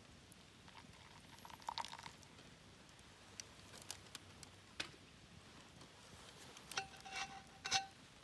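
Light clicks and knocks of small items being handled, ending with a couple of clinks that ring on a clear steady tone for about a second near the end.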